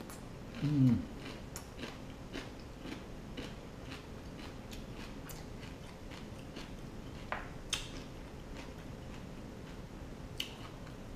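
A person chewing king crab meat, with scattered wet mouth clicks and smacks. A short voice sound falling in pitch, like an 'mm', comes about a second in.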